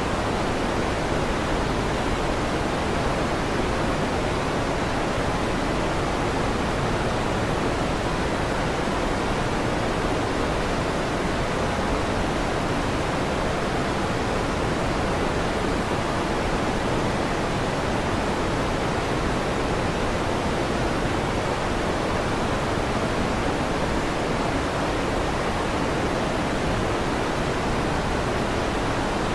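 Electric fan running steadily, an even whooshing noise that does not change, with no thunder.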